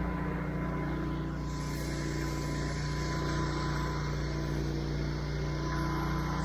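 Engine of a pressure-washing rig running steadily, with a hiss that joins in about a second and a half in.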